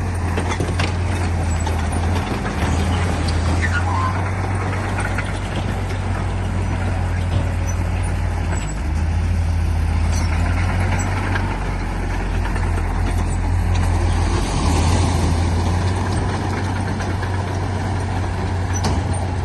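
Diesel engine of heavy earthmoving equipment running steadily with a deep, even drone, mixed with the clatter and rumble of the machinery at work.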